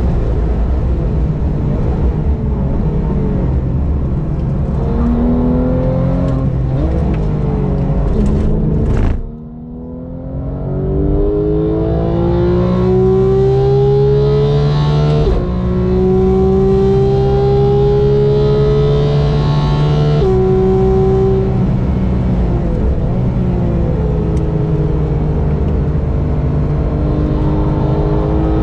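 A race car's engine running hard on track. About nine seconds in the throttle is briefly lifted and the sound dips, then the engine pulls with its pitch climbing steadily, broken by upshifts about fifteen and twenty seconds in, and climbs again near the end.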